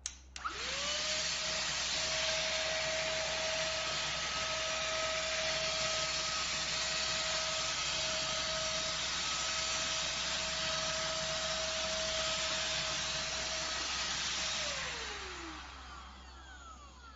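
THUNDER_VACUUM ST6101 cordless wet-and-dry vacuum cleaner switched on with a click, its motor spinning up within a second to a steady tone over a loud rush of air. Near the end it is switched off and winds down, the tone falling in pitch as it fades.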